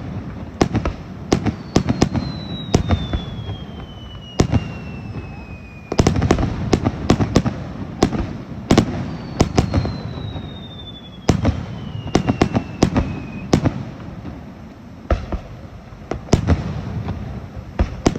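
Aerial fireworks display: shells bursting in rapid clusters of bangs and crackles over a rolling rumble. Twice a long whistling tone slowly falls in pitch over about four seconds.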